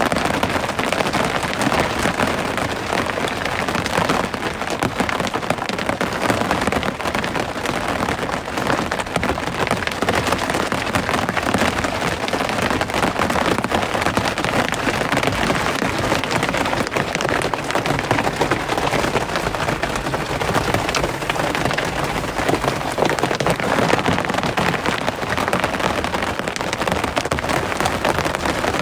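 Steady rain: a dense, even hiss of many drops striking a surface.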